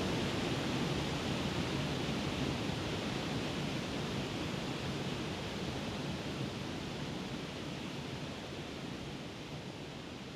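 Steady rush of a waterfall, slowly fading away toward the end.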